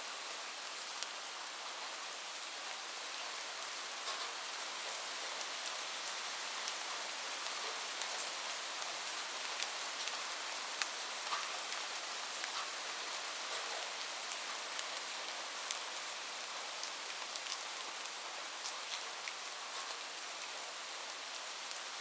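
Steady rain falling on a roof: an even hiss with scattered sharper ticks of single drops.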